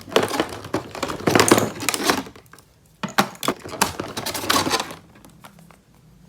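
Plastic toy pieces and packaging being handled during an unboxing: crinkling and small clattering clicks in two spells with a short pause between, dying down near the end.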